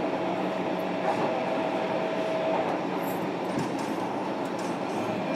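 Running noise of a JR Kyushu 305 series electric train under way, heard from inside the motor car above the brake control unit. Steady rumble and rail noise with a faint steady whine that fades out about two and a half seconds in.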